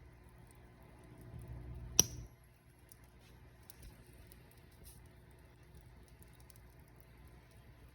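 Wood fire burning in a fireplace: a soft low rumble of flames with faint scattered crackles, and one sharp, loud pop about two seconds in.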